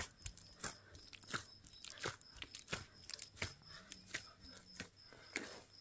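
Someone chewing crunchy food, one crunch about every two-thirds of a second in a steady rhythm.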